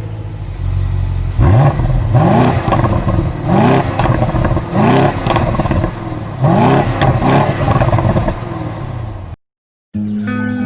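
Mercedes-Benz 220 S/SE straight-six engine revved repeatedly, the throttle blipped several times, each rev rising quickly and falling back to idle. The engine sound cuts off near the end and guitar music begins.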